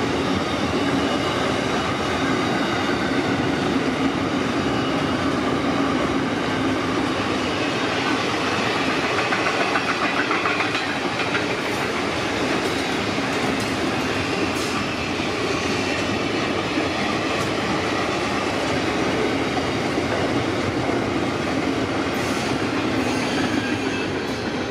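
Train running on the rails: a steady rumble of wheels and running gear with even, unbroken noise, and a few faint clicks in the second half.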